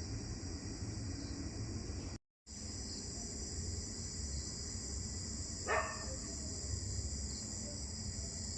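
Steady night chorus of crickets and other insects, high-pitched, with one short distant dog bark about six seconds in. The sound drops out completely for a moment about two seconds in.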